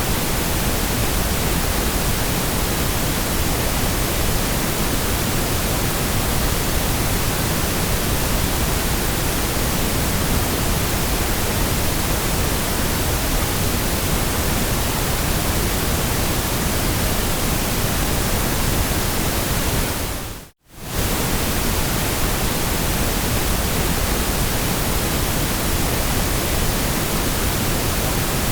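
Steady synthetic white noise: an even, unchanging hiss across all pitches. About 20 seconds in it fades out for a split second and comes straight back.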